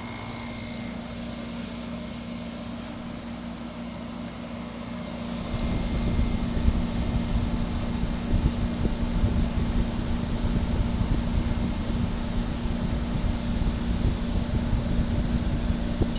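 Window air conditioner with an LG rotary compressor running, a steady hum; about five seconds in, a louder, uneven low rumble sets in. The unit is still pulling down toward full cold.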